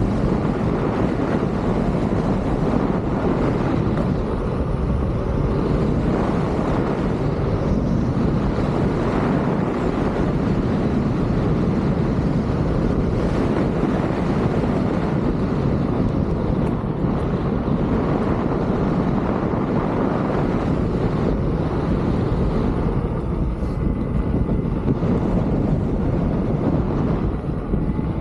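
Steady wind rumble on the microphone of a camera carried on a moving electric unicycle.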